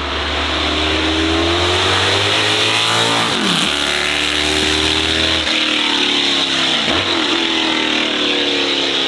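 A high-performance car engine accelerating hard, its pitch climbing through the revs, dropping sharply at two upshifts about three and a half and seven seconds in, and climbing again after each.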